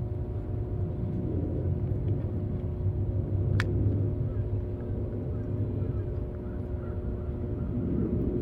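A steady low rumble with a constant hum, and a single sharp click about three and a half seconds in.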